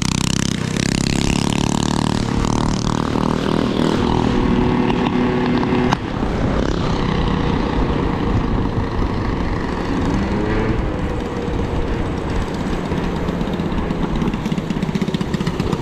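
A vehicle's engine running and road noise while driving, the engine note shifting in pitch over the first few seconds, then settling into a steadier hum. A single sharp click about six seconds in.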